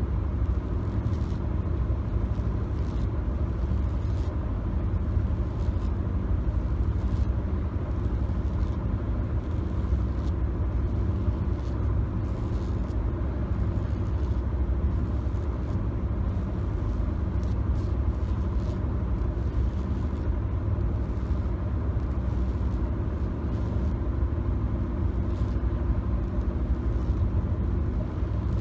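Steady low road and engine rumble inside a moving car's cabin, recorded on a phone, with faint short scratches or taps now and then.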